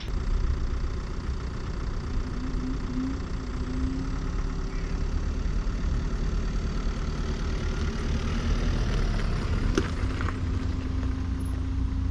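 Car engine running close by as the car pulls out and drives off, a steady low rumble with a faint steady hum over it.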